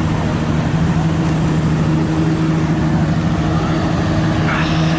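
Car engine running at a steady speed with road noise, a constant low drone that does not change pitch. A short, higher sound comes in near the end.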